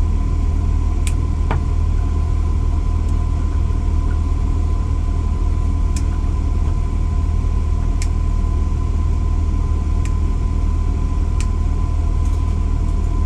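A steady, loud low hum or rumble, like a running fan or motor, with a thin steady whine above it and a few sharp light clicks scattered through it.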